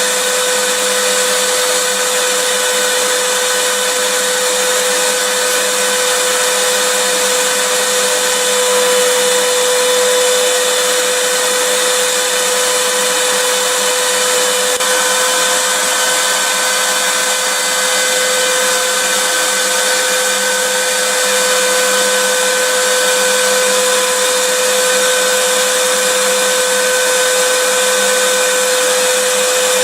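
Vacuum cleaner running steadily: a constant rushing hiss with an unchanging whine from its motor.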